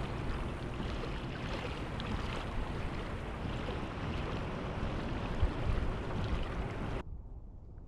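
Wind buffeting the microphone over water noise around a kayak on open sea, a steady rushing with a few small splashes. About seven seconds in it cuts off suddenly to a quieter, muffled sound.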